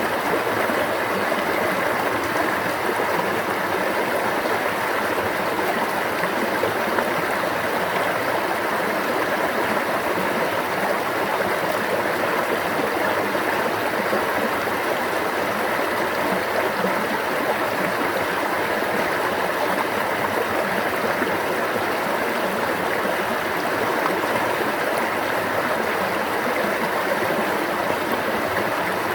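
Flowing stream water running steadily, with no change.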